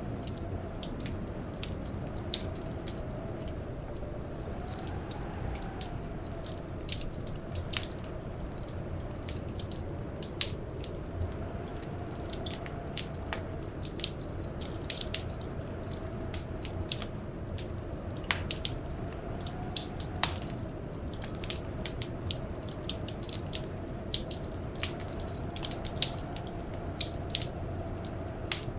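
Wood fire crackling in a fireplace: many sharp, irregular pops and snaps over a steady low rumble. A faint wavering tone, like a blizzard wind's howl, runs underneath.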